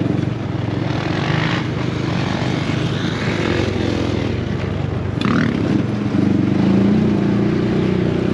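Motocross dirt bike engine running, getting louder and rising a little in pitch about six seconds in.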